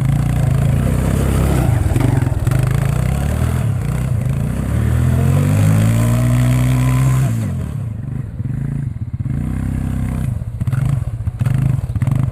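Suzuki 250cc quad bike engine running, its revs rising between about four and seven seconds in, then dropping back sharply to a lower, uneven running.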